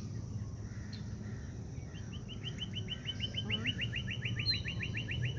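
A small songbird singing a long, even trill of quick falling notes, about eight a second, starting about two seconds in.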